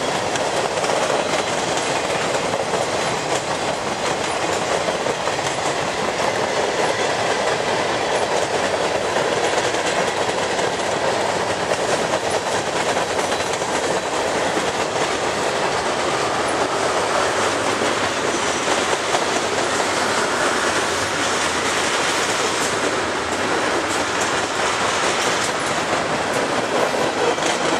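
Freight train cars (boxcars, tank cars and a covered hopper) rolling past: a loud, steady noise of steel wheels running on the rails.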